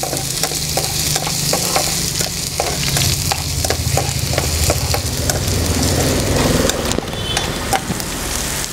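Chopped garlic and ginger sizzling in hot oil in a pan while being stirred, the spatula tapping and scraping against the pan many times.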